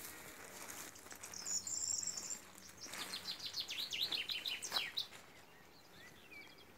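Songbirds singing: a high warbling phrase about a second and a half in, then a run of quick chirps for about two seconds, with fainter calls near the end.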